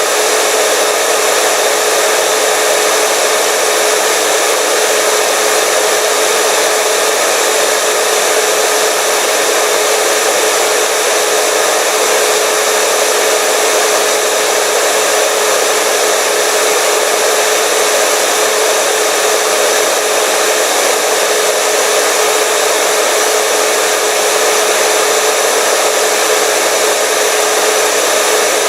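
Electric hair dryer running steadily: a constant rush of air with a steady motor whine.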